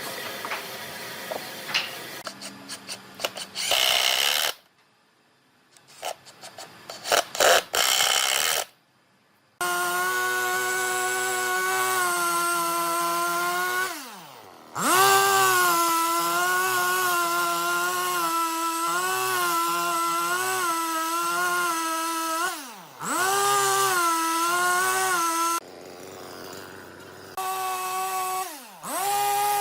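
Knocks and clicks of wood being handled, then an electric power tool motor running with a steady whine that wavers in pitch as it works the wood. It winds down and spins back up a few times.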